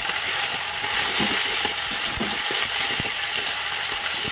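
Sliced onions and tomatoes sizzling in hot oil in a metal kadhai, with a metal spatula stirring and scraping against the pan in irregular clicks and scrapes.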